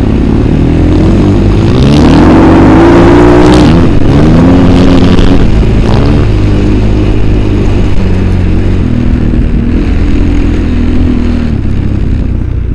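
Engine of a ridden vehicle, heard from on board, revving up and down as the throttle is worked: the pitch climbs about a second and four seconds in, then holds fairly steady before easing near the end.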